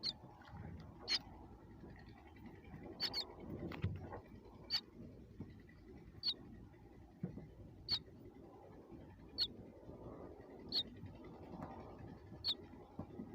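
Baby birds giving short, high peeps, one about every second and a half, over faint low rustling.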